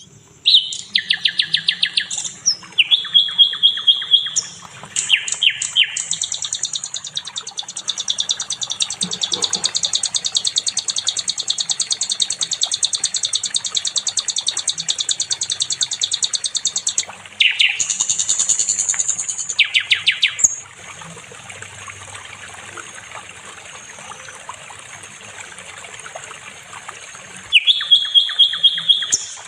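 Sikatan londo (a flycatcher kept as a cage songbird) singing: long, fast, high-pitched rattling trills of rapidly repeated notes, in phrases broken by short pauses. The song drops to a softer chatter about two-thirds of the way through, then comes back loud near the end.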